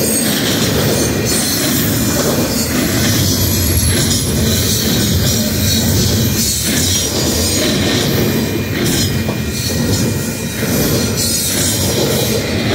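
Double-stack container train's well cars rolling past at speed: a loud, steady rumble of steel wheels on rail with a thin, steady squeal from the wheels above it.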